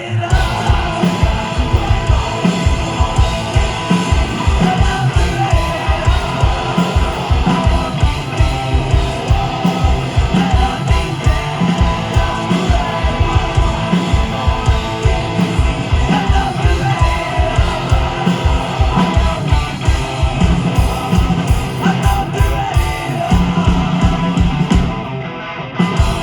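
Live rock band playing loud: guitars, a fast steady drumbeat and yelled vocals. The music drops briefly just before the end and comes back with one more hit.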